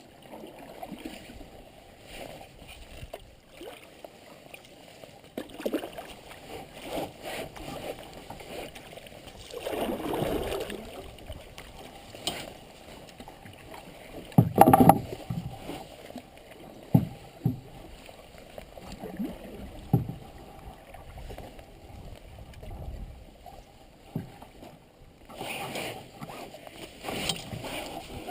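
Canoe being paddled: irregular splashes and swishes of a paddle in the water, with one sharp knock about fifteen seconds in.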